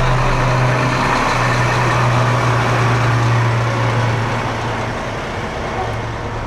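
Military vehicle engine passing by: a loud steady hum that swells and then fades after about four seconds.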